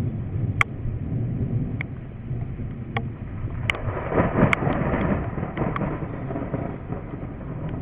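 Thunderstorm rain and wind rumbling on the microphone, with scattered sharp taps of raindrops hitting the camera. The rumble swells louder about four seconds in for a couple of seconds.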